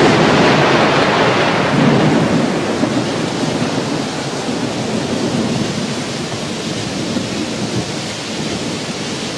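Recorded rainstorm effect ending the song: thunder rumbling off in the first few seconds, then steady heavy rain that slowly fades.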